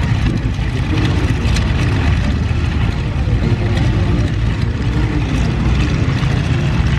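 Radial engines of several Boeing PT-17 Stearman and WACO UPF-7 biplanes running steadily together after start-up.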